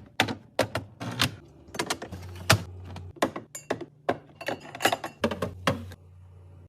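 Irregular clicks and knocks of containers and food items being handled and set down while a fridge is stocked and organized, over a steady low hum. The handling stops about six seconds in.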